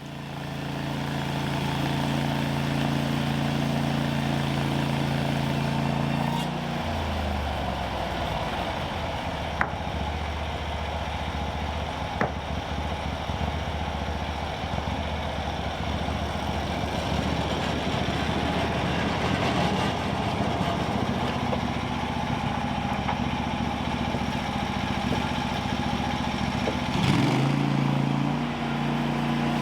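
Portable sawmill's gas engine running, dropping in pitch under load as the blade cuts through a log for about twenty seconds, then rising again as the cut ends near the end.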